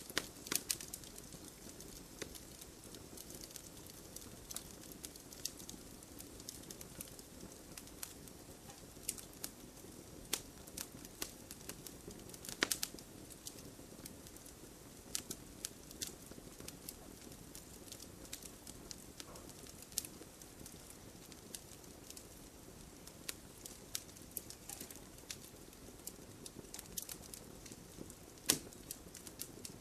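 Wood fire burning in a fireplace: irregular sharp crackles and pops over a soft low rush of the flames, with a louder snap a little under halfway through.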